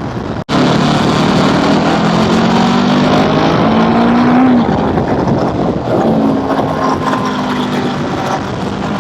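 Honda scooter engine running under way, its note rising steadily as it accelerates for several seconds, then dropping off and holding again, with wind and road noise underneath. The sound cuts out for a split second about half a second in.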